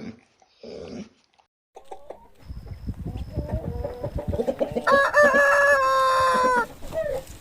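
Rooster crowing: a few short clucking calls, then one long drawn-out crow about five seconds in that falls away at its end, over a low rumbling background.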